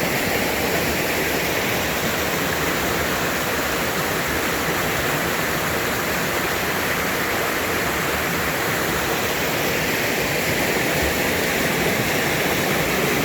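Mountain valley stream flowing steadily with a continuous rush of water.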